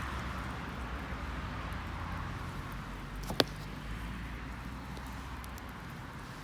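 Wood bonfire burning, with faint scattered crackles and one sharp pop a little past the middle, over a steady hiss.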